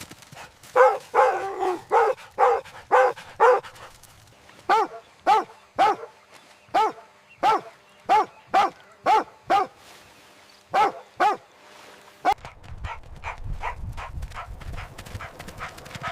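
A dog barking over and over in short, high barks: a quick run of about six, then a steady string at about two a second, and two more after a short pause. Near the end the barking stops and a low rumbling noise with faint rapid ticks rises.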